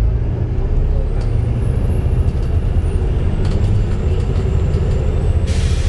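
Volvo B7TL double-decker bus driving, heard from on board: a steady low drivetrain rumble with a faint high whine that rises and then falls in pitch, the bad axle sound of this bus. About five and a half seconds in, a sudden hiss of air starts.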